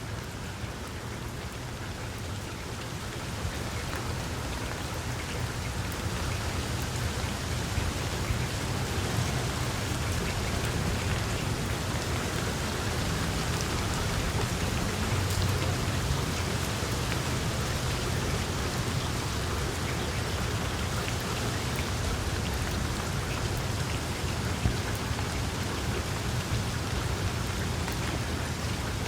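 Wood fire burning in a fireplace: a dense, steady crackle with many small sharp pops over a low rumble of flame, growing somewhat louder over the first several seconds.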